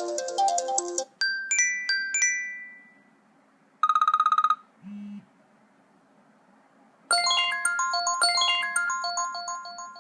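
iOS 7 iPhone ringtones played one after another. A melody ends about a second in, then comes a short chime of ringing bell-like notes, a brief fast-pulsing tone, and a short low tone. After a pause, another ringtone of quick bright melodic notes starts and fades out.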